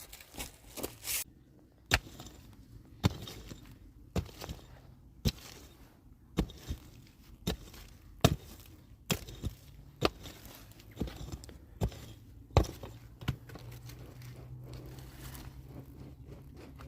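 A hand tool striking wood or earth in a steady work rhythm, about one sharp blow a second, a dozen times. A low steady hum comes in near the end.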